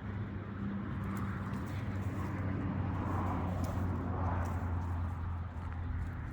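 An engine running steadily at a low, even pitch, with a few faint clicks over it.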